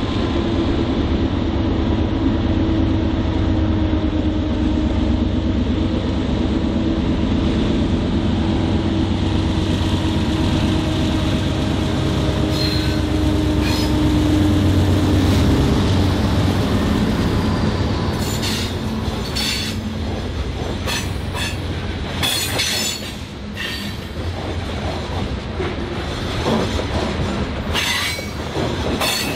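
BNSF diesel locomotives passing close with a steady engine drone, followed by a string of tank cars rolling by with wheel clatter and many short, sharp wheel squeals and clanks from about two-thirds of the way in.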